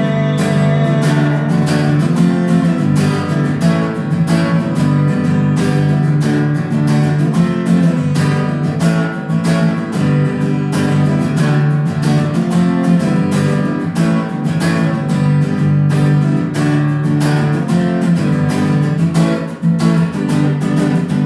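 Acoustic guitar strumming chords in a steady, even rhythm, with no singing.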